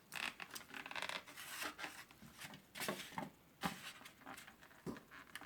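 Faint scratching and rubbing of a pen and ruler on a styrofoam tray as lines are drawn, with scattered light taps and clicks.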